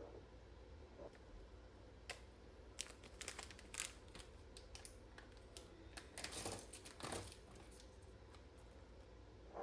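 Quiet room with small handling noises: a cluster of sharp clicks and taps about two to four seconds in, then two short crinkling rustles a little after the middle.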